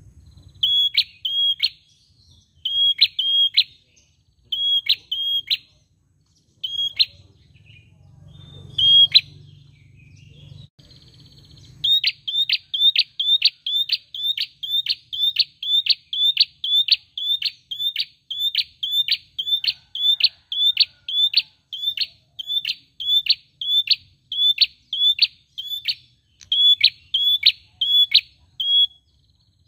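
A caged prenjak sings sharp, high chirps. For about the first ten seconds they come in short phrases a couple of seconds apart. After that they run on in a fast, steady series of about two chirps a second.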